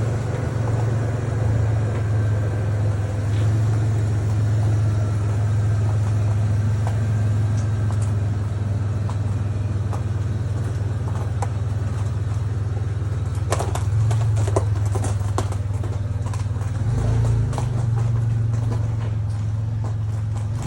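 A 2003 Toyota Tacoma's 3.4-litre V6 idling steadily while it warms up from a cold start after two weeks unused. A few sharp clicks and knocks come about two thirds of the way in, and the deep rumble grows stronger near the end.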